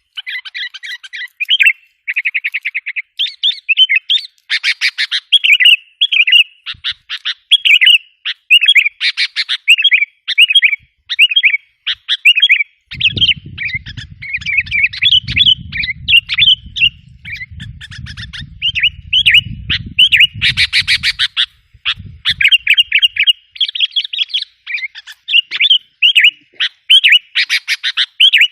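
Sooty-headed bulbuls (kutilang) calling without a break: quick chattering runs and short bubbly whistled notes, used as a lure call to draw wild bulbuls in. A low rumble runs under the calls from about halfway in for several seconds.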